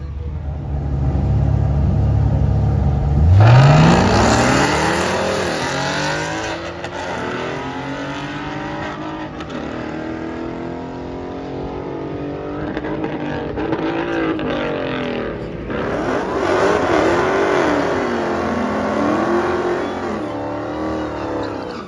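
Drag-racing cars' V8 engines: a Cadillac CTS-V holds a steady low note, then launches about three seconds in, its engine rising sharply in pitch and climbing again through the gears as it fades down the track. About sixteen seconds in, a Dodge Charger and a second Dodge rev up and down during burnouts.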